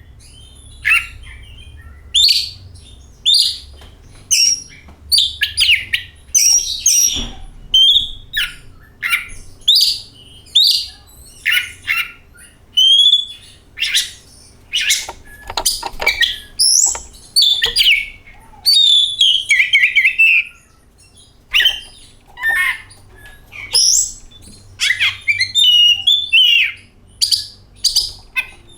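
Oriental magpie-robin (kacer) singing: a long, loud run of varied whistled phrases and chirps, short sweeping notes separated by brief pauses.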